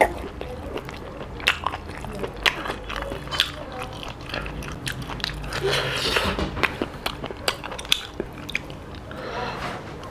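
Close-miked mouth sounds of a person eating stir-fried octopus and rice by hand: chewing and lip-smacking, a string of irregular sharp smacks.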